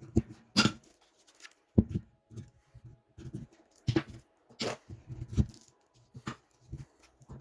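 Irregular knocks, clicks and clatter, like tools and metal parts being handled and set down on a workbench.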